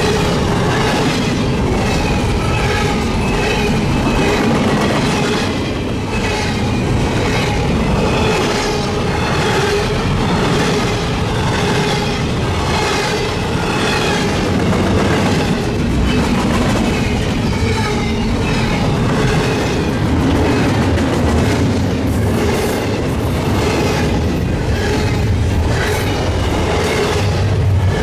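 Canadian National freight train cars rolling past close by, with steel wheels clicking at a steady rhythm over the rail joints.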